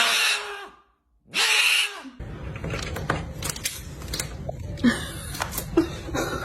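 A parrot squawking twice, harsh calls each under a second long; from about two seconds in, a lower steady hum with scattered light clicks and knocks.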